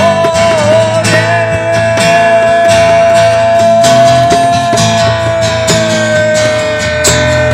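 Acoustic guitar strummed in a steady rhythm, with a single long held sung note over it that wavers briefly at the start and drops slightly near the end.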